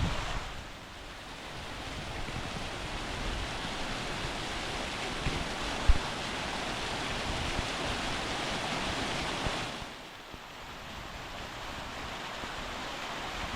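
Waterfall rushing steadily, with some wind on the microphone. It drops quieter briefly twice, and there is a single sharp low thump about six seconds in.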